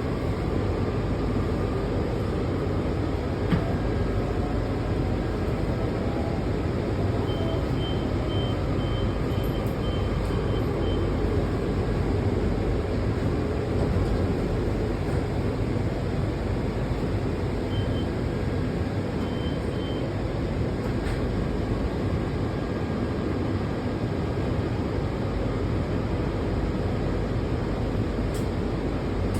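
Washington Metro railcar running between stations, heard from inside the car: a steady rumble of wheels on rail. A run of short high beeps comes about a quarter of the way in, with two more just past the middle.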